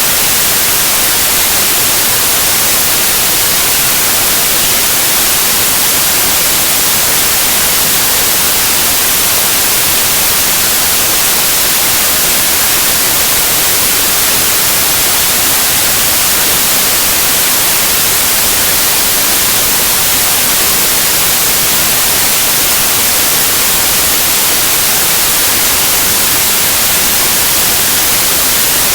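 Steady synthetic white noise, an even hiss with no changes, played as a baby sleep aid.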